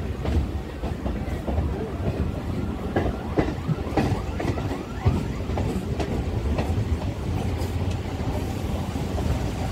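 Suburban electric local train running: a steady low rumble with the clickety-clack of wheels over the track.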